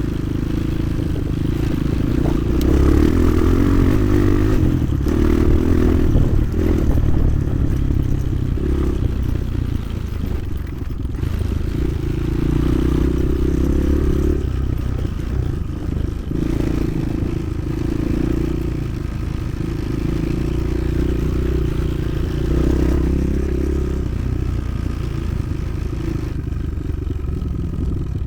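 Motoland XR 300 Lite enduro motorcycle engine running while being ridden, its note swelling and easing every few seconds as the throttle is opened and closed.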